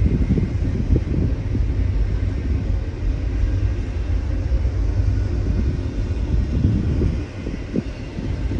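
Intermodal freight train rolling past: a steady low rumble with irregular low thumps and knocks from the cars.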